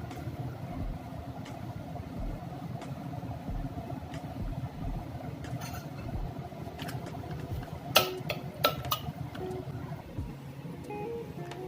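Kitchen cooking sounds: a steady low rumble with a few sharp clinks of utensils about eight to nine seconds in.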